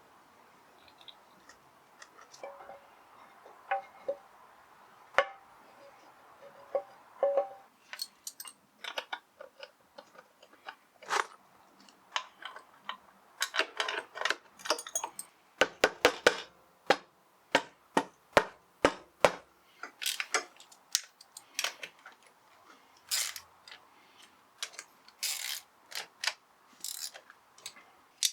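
Metal clinks, clicks and taps of tools and clutch parts being handled while a 50cc motorcycle clutch is reassembled. The sounds are irregular and get busier in the second half, with a quick run of sharp taps about halfway through.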